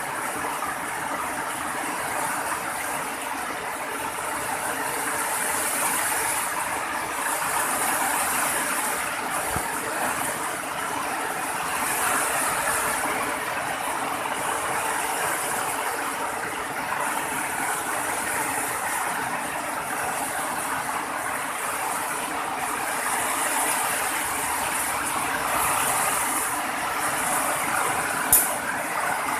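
Rain falling steadily, an even hiss with no letup, and a single sharp click about a second before the end.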